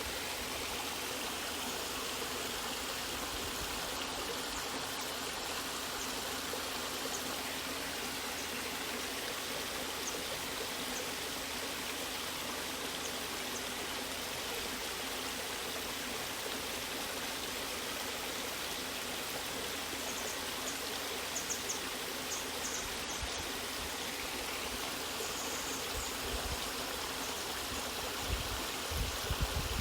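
Water of a stream or small waterfall running and splashing steadily, with a few brief louder splashes near the end.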